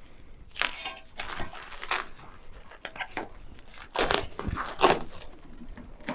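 Irregular rustling, scraping and knocking as used steel wheel rims are handled and moved about, in a string of short noisy bursts.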